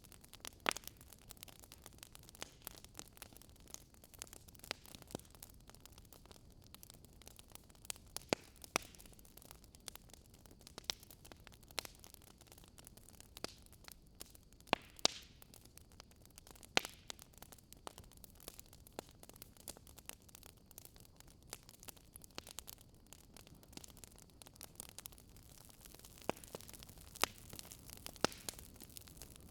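Fire crackling: sharp, irregular pops about every second or two over a soft, steady hiss.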